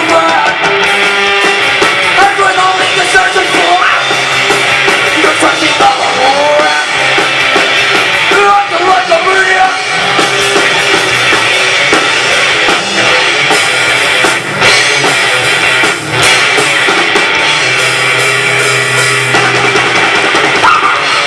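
Loud live rock music from a band: drum kit with electric guitar and a pitched bass line.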